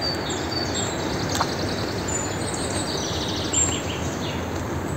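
Birds singing over a steady rushing background noise: short high whistles, and a rapid trill of chirps in the middle.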